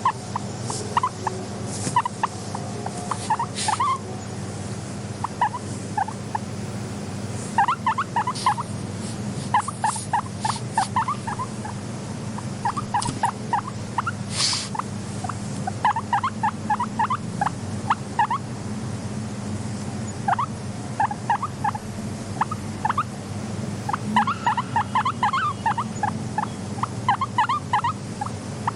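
Guinea pig purring: bursts of quick, rapid pulses repeated several times, with short pauses between the bursts. A steady low hum runs underneath, and there are a few sharp clicks.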